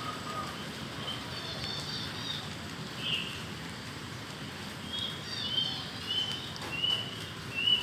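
Steady rain falling, with small birds chirping over it; the chirps are scattered at first, then come in a quick run of short, falling notes over the last few seconds.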